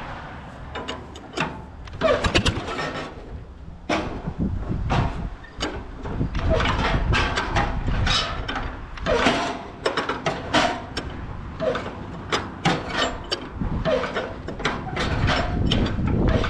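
Farmall A tractor engine, just started, running unevenly under a steady low rumble, with many irregular sharp pops and knocks.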